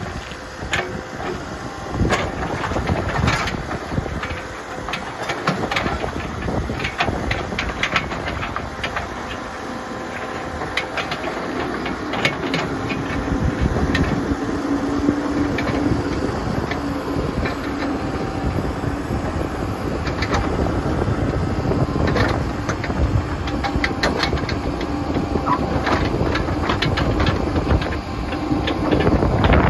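Backhoe's diesel engine running under load, with repeated clanks and knocks from the bucket and arm as it digs, and a steady engine hum through the second half.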